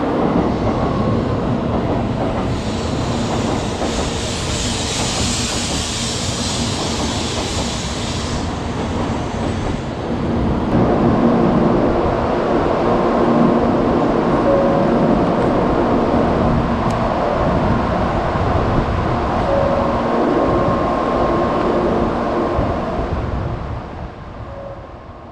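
N700A Shinkansen train rolling slowly alongside the platform and braking to a stop, with a high hiss from about two to eight seconds in. Once it stands, a steady hum with several held tones carries on and fades out at the end.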